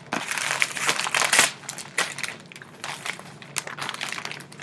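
Gift wrapping and packaging crinkling and crackling as it is handled and pulled open by hand. The sound is densest and loudest in the first second and a half, then comes in shorter scattered rustles.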